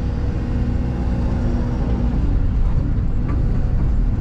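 Excavator diesel engine running with a steady low rumble. A steady tone on top of it fades out about two and a half seconds in.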